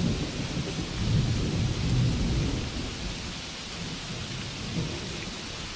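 Steady rainfall with a low rumble of thunder that swells about a second in and dies away by the middle.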